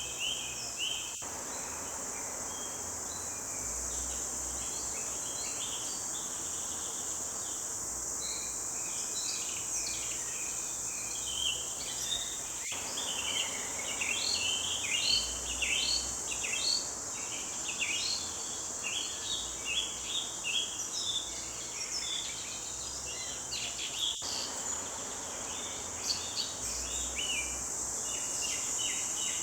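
Forest birds singing in many short, quick chirps and trills over a steady high-pitched insect drone.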